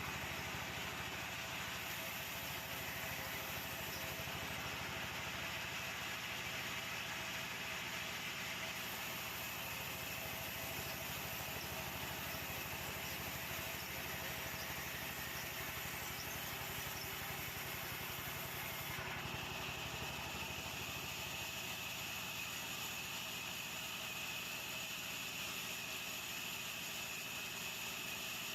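Sawmill machinery running steadily. About two-thirds through, the low hum fades and a higher steady whine takes over.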